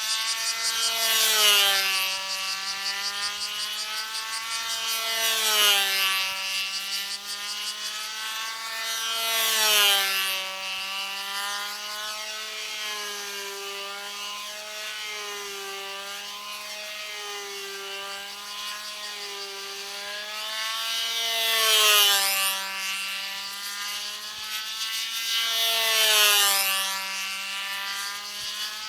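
Small engine of a control-line model airplane buzzing steadily in flight, its pitch rising and falling and its loudness swelling about every four seconds as the plane circles on its lines.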